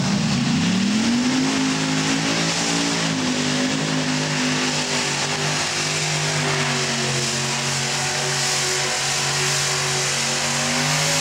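Modified pulling tractor's engine revving up over the first second or so, then held at high rpm in a loud, steady run down the track under the load of the sled.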